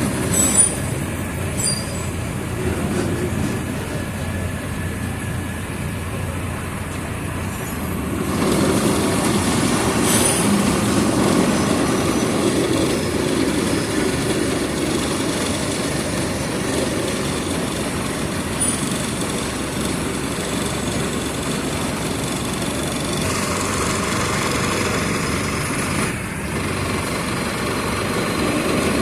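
Mercedes-Benz OF 1722M city bus diesel engine running under way, with road rumble and body rattles. It gets louder about a third of the way in and dips briefly near the end.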